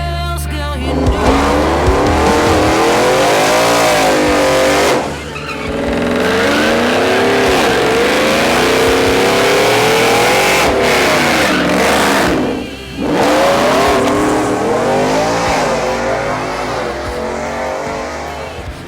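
High-performance car engine revving hard at the drag strip, its pitch swinging up and down, with tire noise under it as in a burnout. The sound drops away briefly twice, about five seconds in and again near thirteen seconds.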